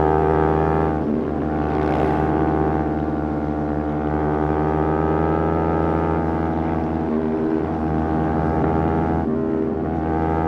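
Motorcycle engine running at steady revs, with short breaks where the pitch shifts about a second in and twice near the end.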